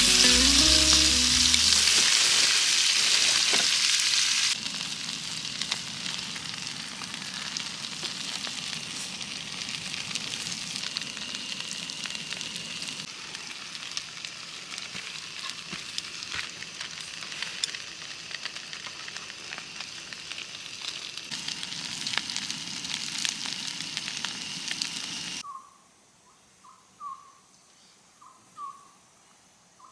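A steady sizzling hiss with many small crackles, louder for the first few seconds. Near the end it cuts to quiet, with a bird giving short calls over and over.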